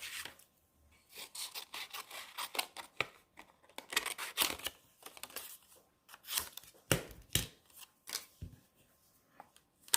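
Paper being cut by hand: a run of short, irregular snipping and rustling strokes as a piece of stamped paper is trimmed down.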